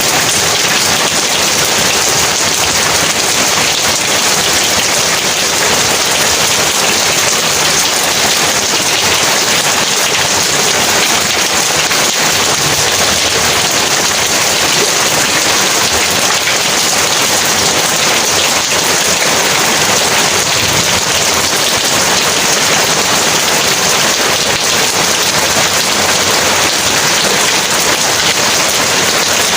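Heavy rain falling, a steady, dense hiss with no let-up.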